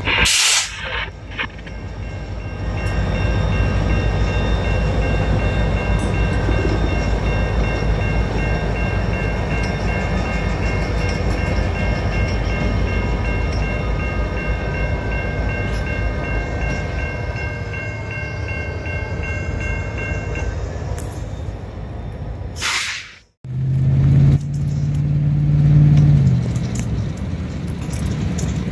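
BNSF freight train rolling through a grade crossing: a steady low rumble of locomotives and cars, with the crossing signal ringing in steady high tones until about twenty seconds in. After a sudden break near the end, a lower steady engine hum takes over.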